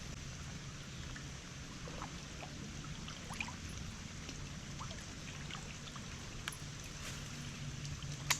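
Creek water trickling with light rain pattering, and a sharp click near the end.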